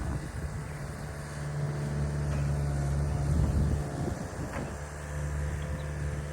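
Skid steer engine running steadily, working harder for a couple of seconds from about a second and a half in, with a few short knocks.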